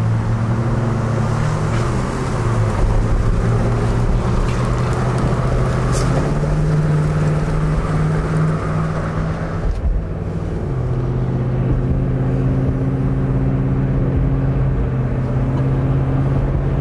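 Pickup truck engine and road noise heard from inside the cab while accelerating. The engine note climbs in two steps, drops away briefly about ten seconds in, then holds steady.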